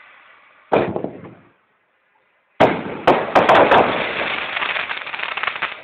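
Fireworks going off: a single loud bang about a second in, then after a short silent gap a rapid, dense string of firecracker bangs and crackling that starts suddenly about two and a half seconds in and dies away near the end.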